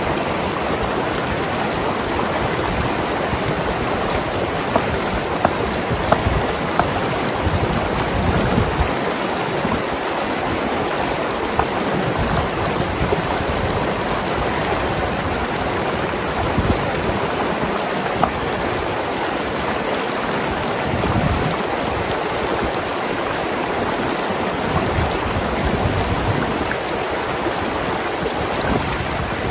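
Mountain river rushing and gurgling over rocks: a steady wash of water with small irregular splashes.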